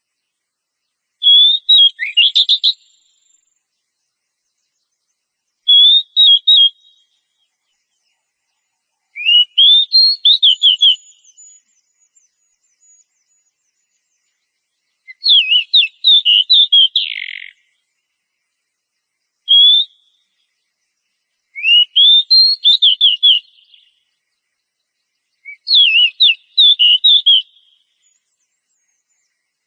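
Oriental magpie-robin (kacer) singing: seven short phrases of quick whistled and sweeping notes, each under two seconds, separated by pauses of a few seconds.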